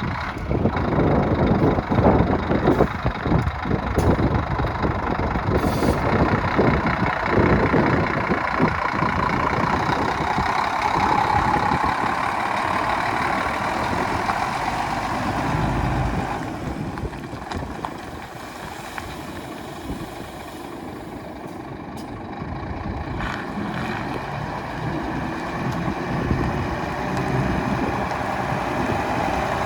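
Scania 124 truck's straight-six diesel engine running, dropping quieter in the middle and picking up again near the end.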